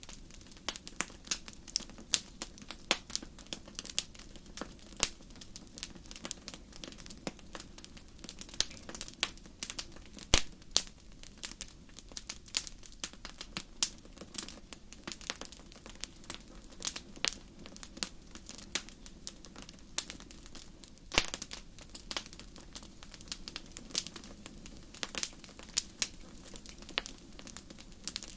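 Wood fire crackling in a fireplace: irregular sharp pops and snaps, several a second, over a steady low hiss, with a few louder pops, one about ten seconds in and another about twenty-one seconds in.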